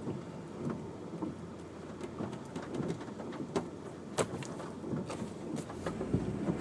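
Rain ticking irregularly on a moving taxi over a low road rumble, heard from inside the cab; the ticks come more often toward the end.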